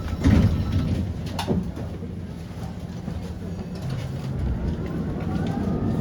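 Electric tram running, heard from on board: a steady low rumble with two sharp knocks in the first second and a half, then a faint whine rising in pitch from about two-thirds of the way through as the tram picks up speed.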